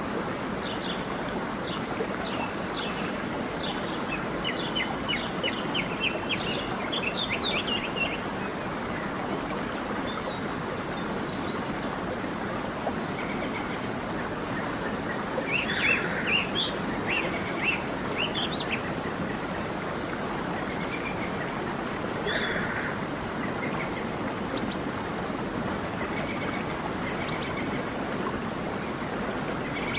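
Steady rush of a flowing stream with songbirds chirping over it: runs of quick high chirps through the first eight seconds or so, a louder flurry about halfway through, and a few scattered calls later.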